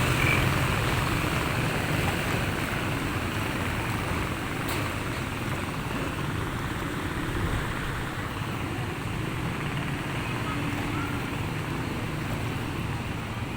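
Steady engine hum with water and wind noise, with no sharp events.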